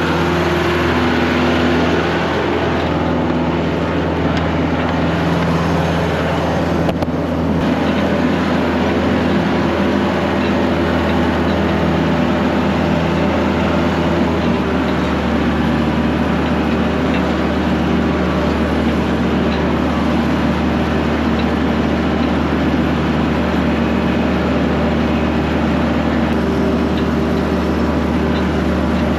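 Vehicle engine running steadily while driving, with a low, even drone. The engine note shifts slightly about halfway through.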